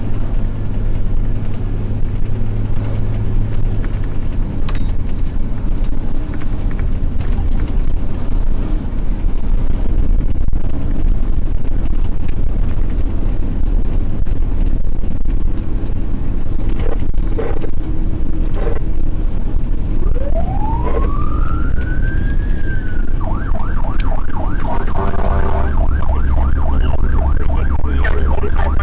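Fire engine on an emergency run: its engine drones steadily with road noise, then about two-thirds of the way through the siren winds up in one long rising-and-falling wail and switches to a fast yelp that runs on to the end.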